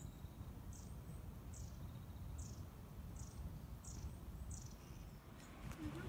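A small bird calling: about seven short, high chirps, each dropping slightly in pitch, spaced a little under a second apart and stopping near the end, over a steady low rumble.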